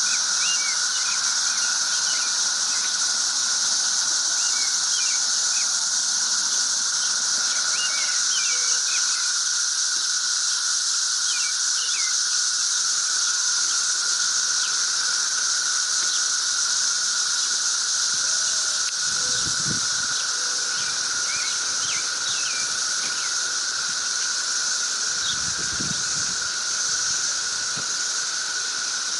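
Loud, steady cicada chorus as a constant droning buzz, with faint bird chirps scattered through it. Two brief low rumbles come in the second half.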